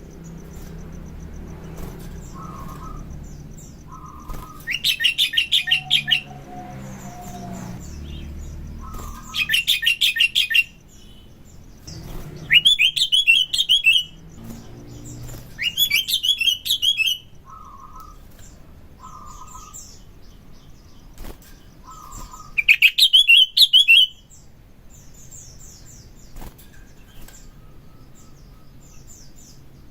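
Sooty-headed bulbul (kutilang) singing in loud bursts of rapid, chattering notes, five bursts of about a second or so each, with short softer whistled notes between them.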